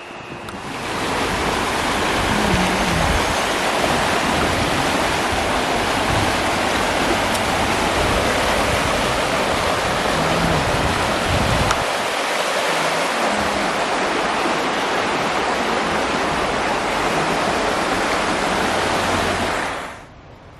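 River water rushing, a steady loud noise that starts about a second in and cuts off near the end.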